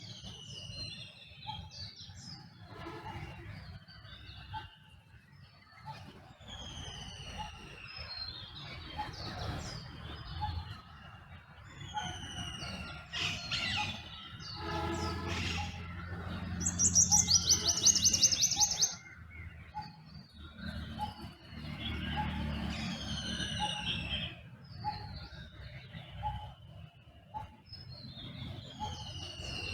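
Dawn chorus of several songbirds: many short, falling whistled phrases overlapping, with one loud, fast trilling chatter about halfway through. A low background rumble runs underneath.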